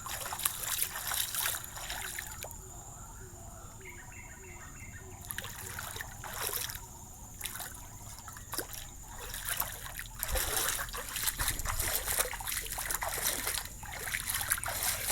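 Floodwater trickling and splashing in uneven bursts, busiest for a few seconds past the middle.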